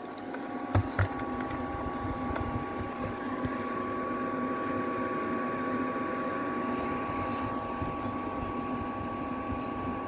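Small portable air cooler fan running steadily, its motor giving a steady whine over the airflow. Two short knocks about a second in.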